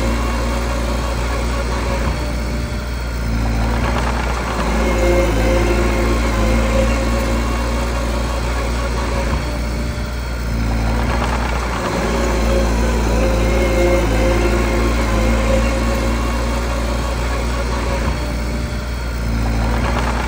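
Mini bulldozer's diesel engine running steadily, its pitch shifting every eight seconds or so.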